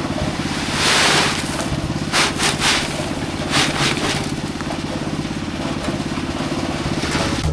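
Small engine running steadily with a fast, even pulse, with several short gritty hissing or scraping bursts over it.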